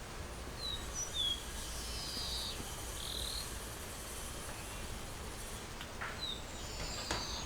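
Birds chirping: a handful of short, high calls scattered through, over a steady background noise, with a sharp click near the end.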